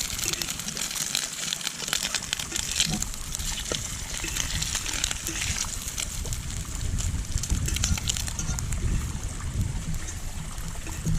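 Bacon sizzling and crackling in an oiled pan over a campfire, a dense steady spitting hiss. Low rumbling wind gusts on the microphone come and go, strongest in the second half.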